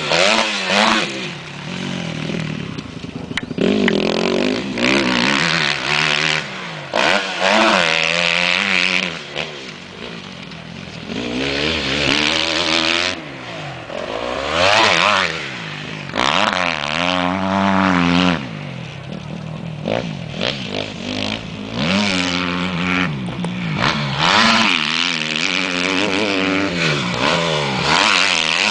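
Motocross dirt bike engine being ridden hard, revving up and easing off again and again, its pitch climbing and dropping while the loudness swells and fades.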